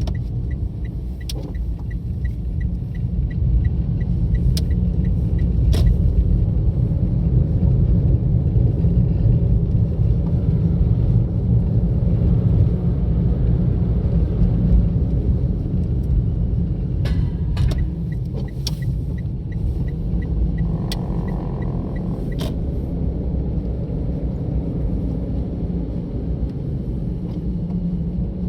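Car driving on a road, a steady low rumble of road and engine noise heard from inside the car. A faint, regular ticking of about four a second comes in twice, once just after the start and again past the middle, with a few sharp clicks.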